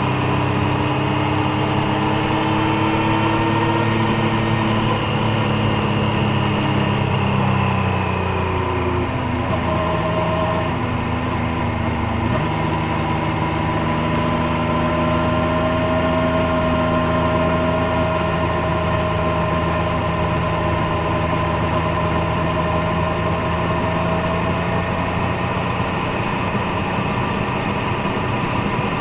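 Triumph Street Triple 765 Moto2 Edition's three-cylinder engine and exhaust under way. The engine note falls over the first eight seconds or so, changes pitch around nine to twelve seconds, then holds a nearly steady note at moderate revs.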